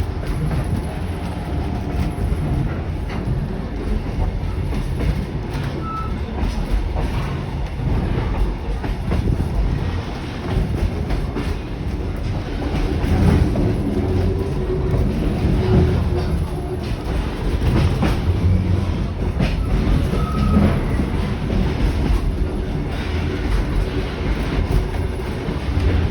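Kuranda Scenic Railway train running along the line: a steady rumble of wheels on track with light clicking. Two brief high squeaks come about six seconds in and again near twenty seconds.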